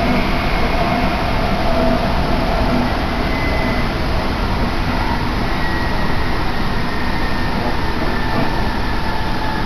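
Tsukuba Express electric commuter train running, heard from inside the passenger car: a steady rush and rumble of running noise with a faint high whine over it.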